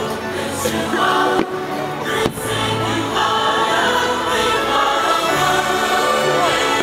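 Choral music from a fireworks show soundtrack, played loud over the show's speakers. Two sharp firework bangs cut through it, about one and a half and two and a half seconds in.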